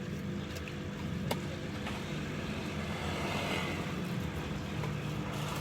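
Street traffic: a vehicle passing close by, its noise swelling and fading about three to four seconds in, over a steady low hum, with a few light clicks.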